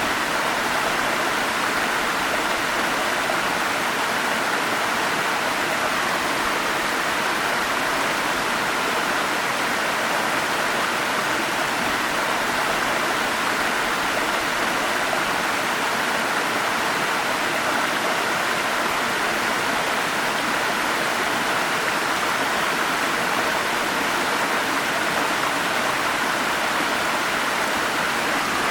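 Forest stream with small waterfalls, the water rushing and splashing in a steady, unbroken hiss.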